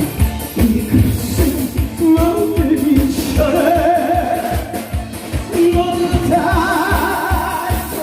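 A Korean trot-style song performed live: a singer holding long notes over a steady drum beat, with the voice coming in about two seconds in.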